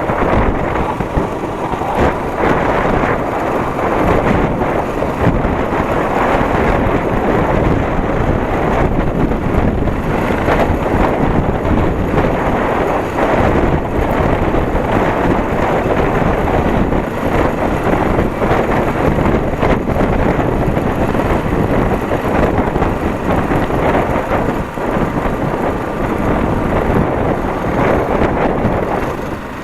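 Wind rushing over the microphone on a moving motorcycle, with the engine running beneath it. Near the end the noise falls away.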